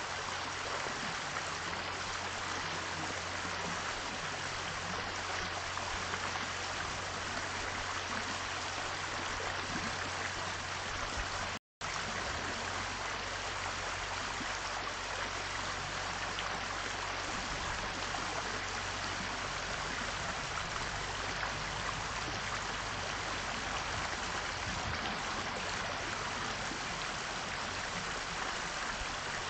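Steady rushing noise like running water, over a low steady hum; the sound cuts out completely for a split second about twelve seconds in.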